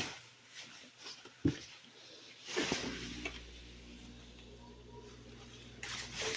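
Handling sounds of a wet shirt and the plastic spin basket of a portable mini washing machine: a single knock about one and a half seconds in, then a rustle about a second later. A faint steady low hum sets in with the rustle and carries on.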